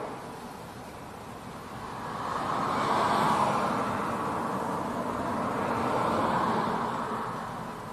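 Jet airliner engine noise that swells to a peak about three seconds in, eases slightly, swells again around six seconds, then fades.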